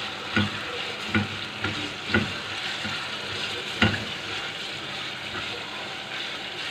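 Mutton liver pieces sizzling in oil with onions and ground spices in a metal pot, stirred with a spatula. The spatula scrapes and knocks against the pot several times, mostly in the first four seconds, over a steady sizzle.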